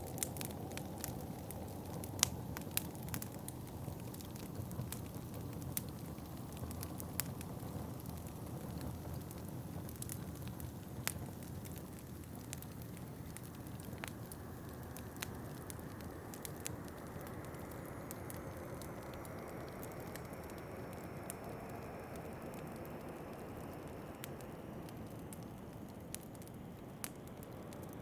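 Wood fire crackling in a fireplace, sharp pops scattered over a steady low rush of wind; the pops come more often in the first half, and the rush grows brighter in the second half.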